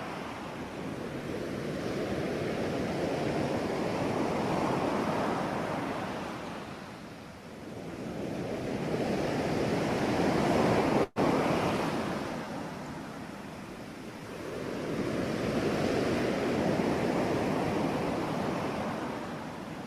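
Recorded ocean waves washing onto a shore, the surf swelling and falling back in three slow surges about six seconds apart. The sound drops out for an instant about eleven seconds in.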